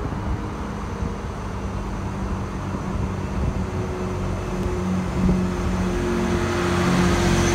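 Diesel passenger train approaching beneath the bridge, its engine drone growing steadily louder.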